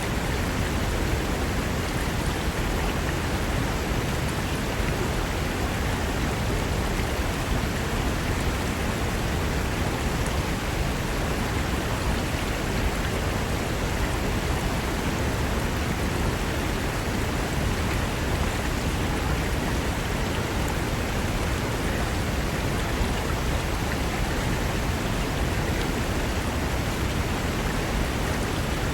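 Fast-flowing mountain river rushing over rocks: a steady, unbroken rush of water.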